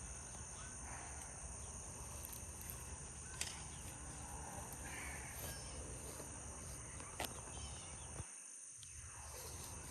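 Steady outdoor insect buzz, with two short sharp clicks about three and a half and seven seconds in.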